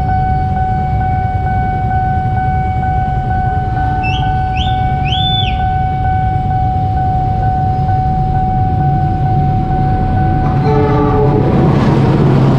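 Level-crossing warning alarm sounding a steady tone while a diesel locomotive approaches, its low engine rumble growing louder. A train horn sounds briefly near the end as the locomotive reaches the crossing.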